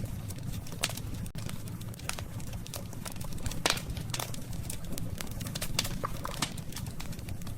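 Burning wood crackling and popping irregularly over a steady low rush of flame, with one louder pop about three and a half seconds in.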